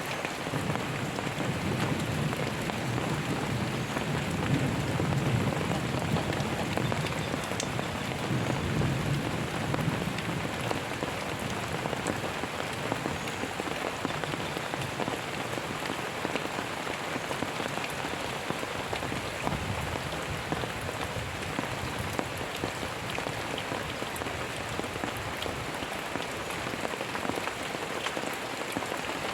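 Steady rain falling, with a low rumble of thunder rolling through the first ten seconds or so.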